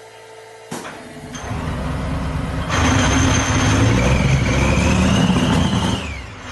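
Tank engine fitted in a KrAZ truck starting: a click, a second or two of rising cranking noise, then the engine catches and runs loud for about three seconds with a rising whine, before dying away near the end.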